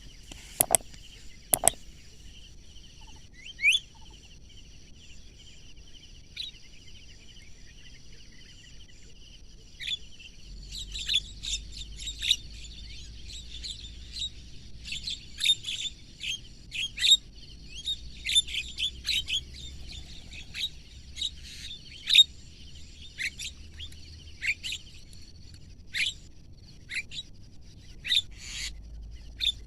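Birds chirping: scattered short high calls at first, then a dense run of quick chirps from about ten seconds in, over a steady high-pitched background whine. Two sharp clicks come right at the start.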